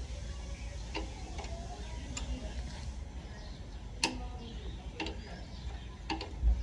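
Sharp metallic clicks and taps at uneven gaps, about one a second: hand tools working on a motorbike under repair. Faint bird chirps can be heard behind them.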